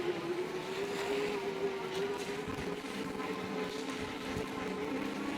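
Jansno X70 e-bike's 750-watt electric motor whining under power while riding, the whine climbing a little in pitch over the first second or two and then holding, with tyre and wind noise beneath it.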